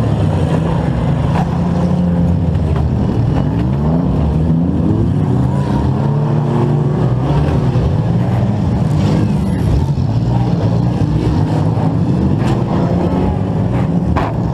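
Compact demolition-derby car's engine running hard, heard from on board, its revs rising and falling repeatedly. Two sharp knocks, one about nine and a half seconds in and one near the end.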